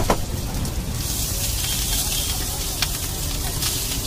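Egg frying in oil in a hot pan, sizzling steadily. From about a second in the sizzle grows louder and brighter as cooked yellow rice goes into the pan for egg pulao.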